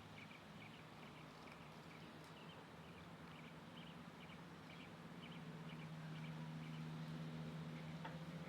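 Small birds giving short, faint high chirps at irregular intervals, over a steady low hum.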